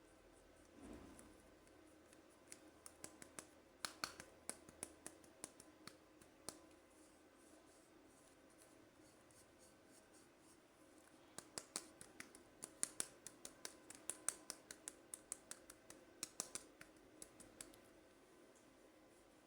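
Quiet, close handling of toy packaging: small sharp clicks and ticks in two runs of rapid taps, the second run longer and denser, with a soft rustle about a second in.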